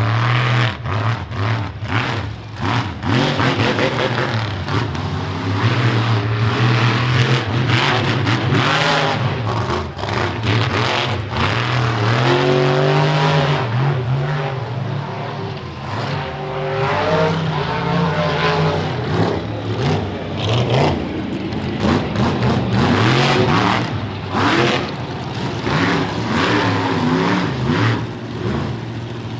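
Monster truck engine running hard and revving, its pitch rising and falling several times.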